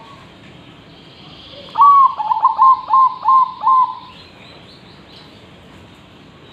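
Zebra dove (perkutut) singing one song phrase about two seconds in: a short low note followed by a quick run of about six staccato cooing notes.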